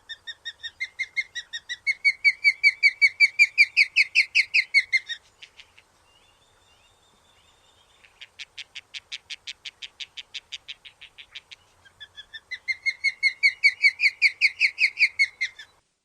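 Osprey calling: a series of short, high whistled chirps, about four or five a second, rising in pitch and growing louder, then trailing off. After a pause comes a quicker run of sharp notes, and near the end a second series of whistled chirps.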